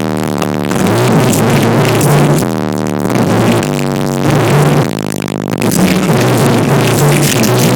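Loud electronic dance music with a pounding bass line, played through a truck's sound system of four American Bass DX 10-inch subwoofers.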